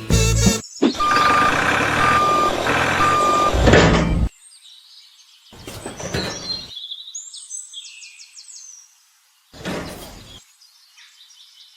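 Truck engine running with a reversing alarm beeping three times, about a second apart, cutting off after about four seconds; after that only faint, scattered high chirping sounds and a brief burst of noise.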